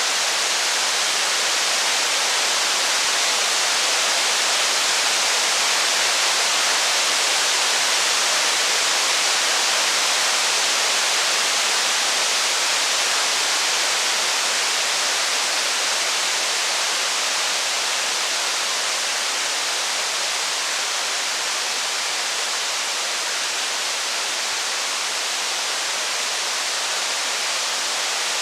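Steady rain falling as an even, unbroken hiss, without separate drops, thunder rumbles or fire crackles standing out.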